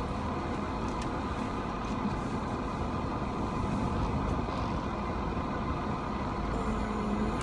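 Car running, a steady low rumble heard from inside the cabin while pulling into a parking spot.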